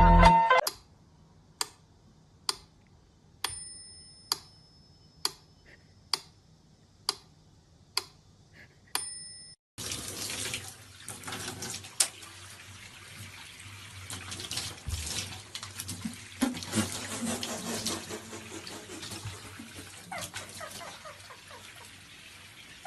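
Sharp ticks about once a second for the first nine seconds, then water running, as from a tap into a sink, with scattered knocks and clatter.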